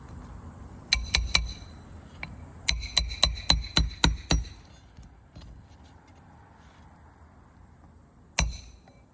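Hammer driving 1 1/4 inch roofing nails into a shingle: three quick blows about a second in, a run of about seven blows from around the three-second mark, and one last blow near the end, each with a short metallic ring.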